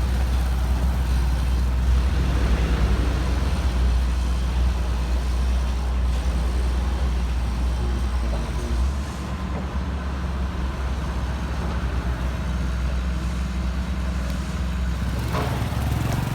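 A heavy vehicle engine running steadily with a deep rumble, its lowest part easing off about nine seconds in.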